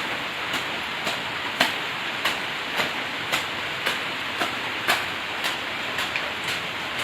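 Steady rain falling, with a regular knock a little under twice a second on top of it.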